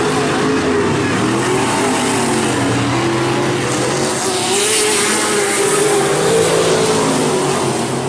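Several race trucks' engines running hard under racing, their pitches wavering up and down as they circle; a louder, brighter swell about four to five seconds in as trucks pass close by.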